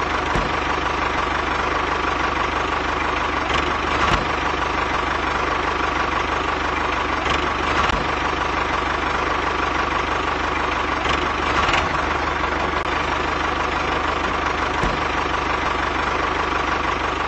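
Tractor engine running steadily at idle, with a few faint clicks scattered through.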